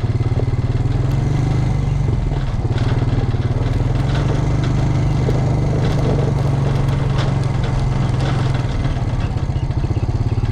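Farm tractor engine running close by, with a steady low rumble. The engine note lifts a little about a second in and eases back near the end, as when the tractor is driven and then slowed.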